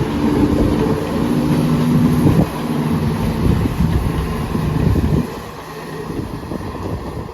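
A train moving at the station, its engine or traction motors giving a steady pitched tone that steps to new pitches, over a low rumble; it drops quieter about five seconds in.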